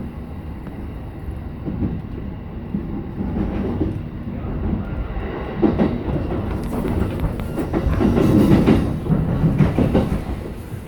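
E233 series 7000 electric train running along the track: a steady rumble of wheels on rail with a few sharp clacks over rail joints, growing louder about eight seconds in.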